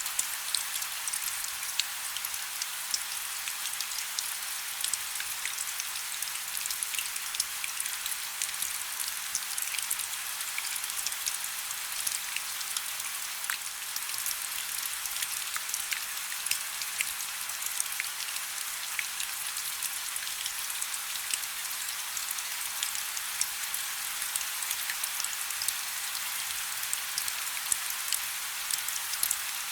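Steady rain falling: a constant high hiss dotted with many sharp drop ticks.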